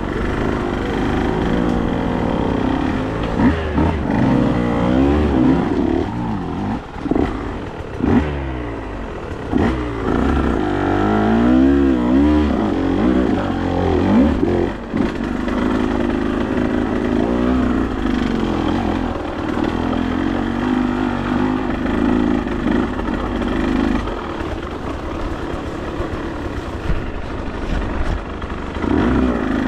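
Motorcycle engine running under way, its revs rising and falling again and again with the throttle.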